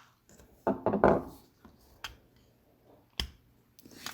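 Flathead screwdriver prying at the plastic back cover of a GM flip key fob: a short stretch of scraping and rubbing about a second in, then single sharp plastic clicks near the end as the cover works loose.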